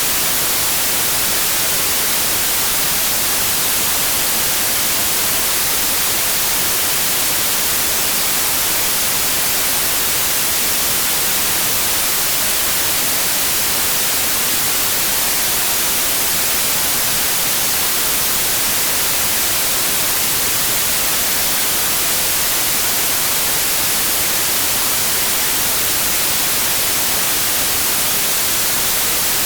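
Steady white noise: an even, unchanging hiss with no tones or rhythm in it.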